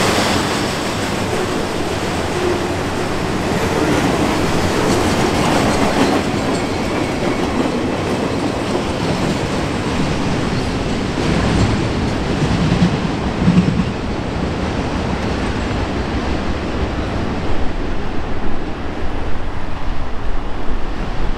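Freight cars of a Norfolk Southern work train rolling past on the rails, a dense steady rumble and rattle of wheels and cars. The high rattle thins out in the second half as the train moves away.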